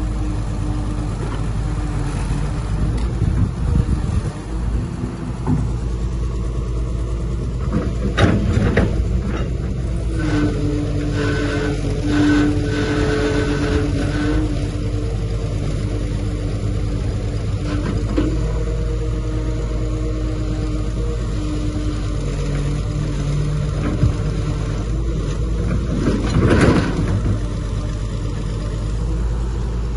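Heavy diesel construction machinery, a bulldozer or dump truck engine, running steadily with a low rumble. A few loud knocks come through, about eight seconds in and again later on.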